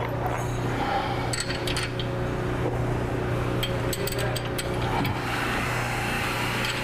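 Scattered metallic clinks and taps of a steel bumper bracket and its bolts and nuts being handled and fitted against a Jeep frame, over a steady low hum.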